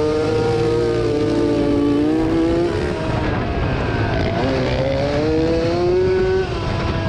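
1987 Yamaha YZ80 two-stroke motocross engine revving hard as the bike is raced: the pitch climbs for about three seconds, falls back as the throttle comes off, then climbs again and drops suddenly near the end.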